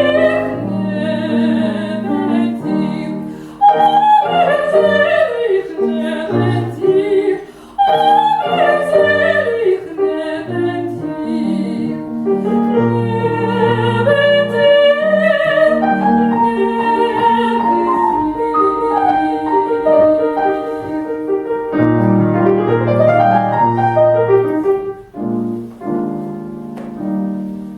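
A woman's classical voice singing an operatic art song with wide vibrato, accompanied by grand piano. Near the end the voice climbs to a high note, then the music winds down and the last piano notes fade out.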